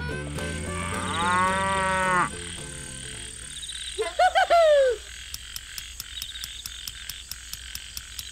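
A cow mooing once, about a second in, over the tail end of background music. About four seconds in comes a short, loud call sliding down in pitch, followed by faint steady chirping with a regular high ticking.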